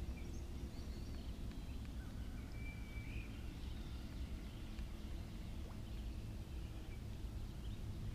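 Faint bird calls: a few thin chirps and one short whistled note a few seconds in, over a steady low rumble.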